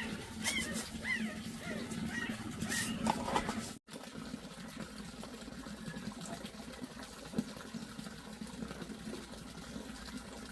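Chicks or small birds chirping in short, repeated rising-and-falling calls. They stop at an abrupt cut about four seconds in, after which there is a steady, faint sound like running water.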